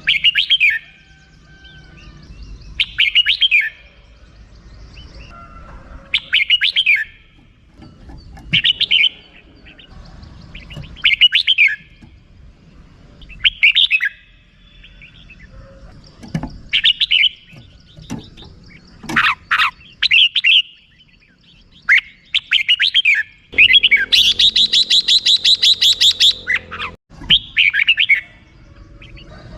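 Red-whiskered bulbul giving its rapid chattering 'rik' call: short, quick phrases repeated about every two to three seconds, then a longer run of fast rattling notes near the end lasting about three seconds.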